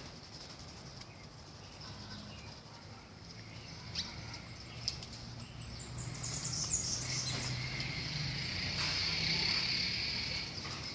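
Outdoor nature ambience: a steady high insect buzz that swells about halfway through, with a quick run of high bird chirps in the middle.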